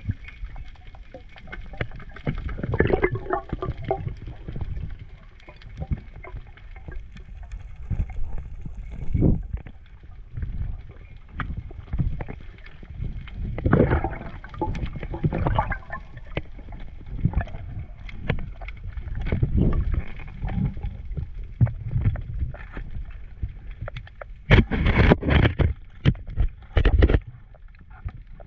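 Muffled, irregular water sloshing and gurgling with uneven knocks, and a cluster of sharper, louder knocks near the end.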